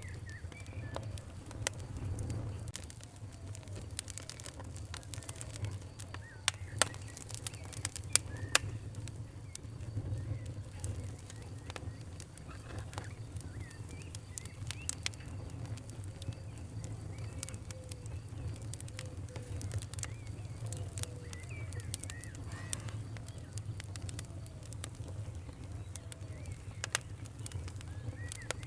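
Wood fire crackling: irregular sharp pops and snaps, a few louder ones around seven to nine seconds in, over a steady low rumble. Faint short chirping calls sound in the background.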